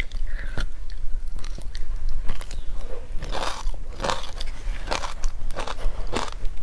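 Close-up biting and chewing of frozen creamy matcha ice chunks with buckwheat seeds: a run of irregular, crisp crunches and pops.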